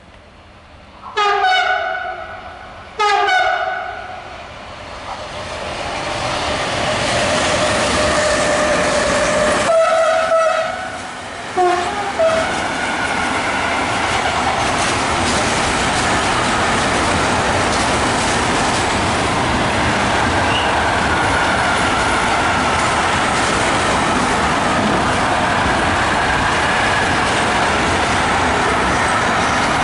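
An electric freight locomotive sounds its horn in two blasts a couple of seconds apart as it approaches, with a few more short horn notes about ten seconds in. Then a long intermodal freight train of tank containers and trailer wagons rolls past, a loud steady rumble.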